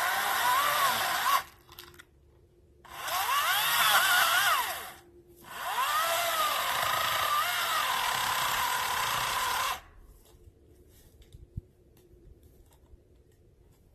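Greenworks 40-volt DigiPro 14-inch cordless electric chainsaw cutting wood, its motor whine dipping and rising in pitch as the chain loads up in the cut. It cuts off about a second and a half in, then runs in two more stretches with a short break between, starting and stopping sharply with no idle, and stops for good near ten seconds.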